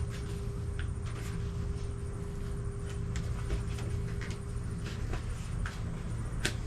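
Scattered light clicks and taps of a plastic clip on a lawnmower grass-catcher bag being worked open by hand, over a steady low background hum.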